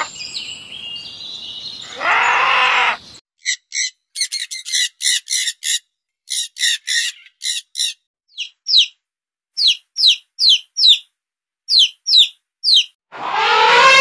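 Bird chirping: short high chirps in quick clusters, then from about eight seconds in single chirps that slide down in pitch, roughly two a second.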